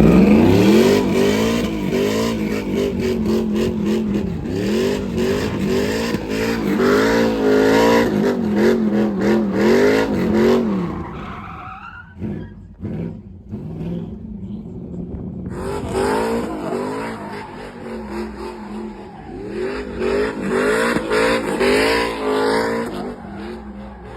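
A car or truck engine revving hard, its pitch rising and falling repeatedly over squealing tyres, typical of a burnout. The sound falls away about eleven seconds in, and a second burst of revving with tyre squeal starts about five seconds later.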